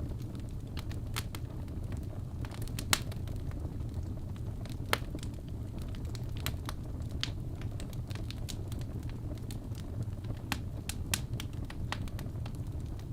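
Wood fire burning in a fireplace: a steady low rumble of the flames with scattered sharp crackles and pops from the logs, two louder pops about three and five seconds in.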